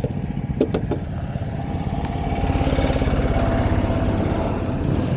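A KTM Duke 200's single-cylinder engine idling, with a few sharp clicks just under a second in. The engine grows louder about two seconds in.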